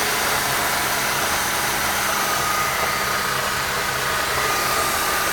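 Mercedes-Benz M271 four-cylinder engine idling steadily, with a faint high steady tone over the engine hum. The noise was traced to the drive-belt tensioner, not the power steering pump as first suspected.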